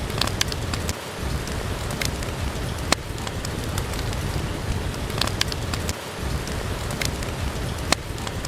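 Steady rain, with sharp crackles and pops from a wood fire in a fireplace every second or so, a few louder than the rest.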